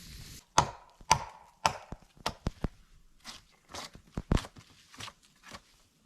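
A run of sharp chopping strikes, a blade on wood, about two a second at first and then more unevenly; the first few ring briefly.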